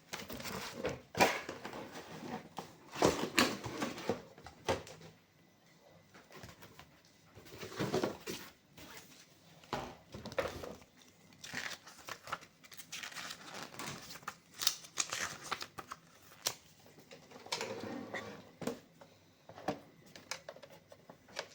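Unboxing handling noises: packaging rustling and crinkling, with irregular light clicks and knocks of a small plastic device being handled.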